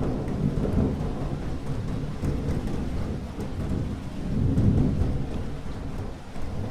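Thunderstorm: steady rain falling with low rolling thunder that swells to its loudest about two thirds of the way through, then fades.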